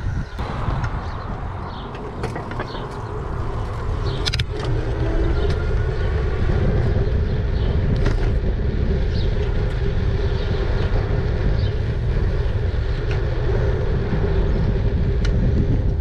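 E-bike on the move: wind buffeting the microphone over tyre noise, with a steady mid-pitched hum that grows stronger about four seconds in and scattered light clicks.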